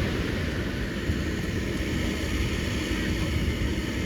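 Ocean surf rushing steadily, with a low rumble underneath.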